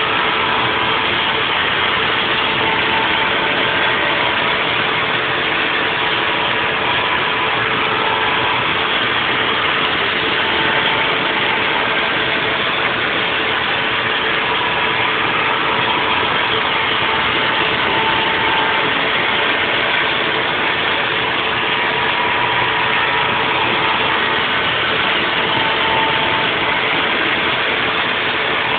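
Haas VF4 CNC vertical mill running a 3D machining program: steady machine noise with a faint whine whose pitch shifts a little now and then.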